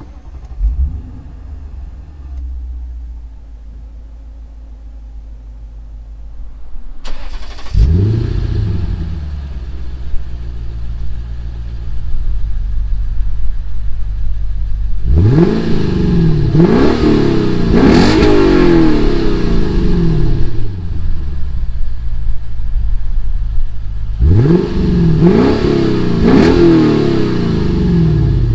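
A car's engine heard from inside the cabin, idling and then accelerating about eight seconds in. Then the same car heard from outside, revved in quick blips in two bursts.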